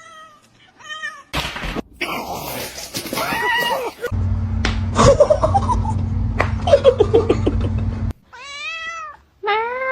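Cats meowing: a string of separate meows, some drawn out and wailing. A steady low hum sits under the middle stretch.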